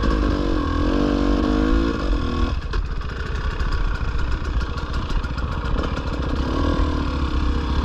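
Dirt bike engine running at low revs, its pitch rising and falling with the throttle about a second in and again near the end.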